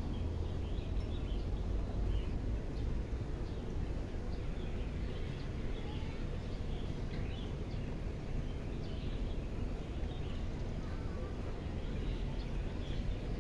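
Birds chirping: many short, scattered chirps over a steady low rumble of background noise.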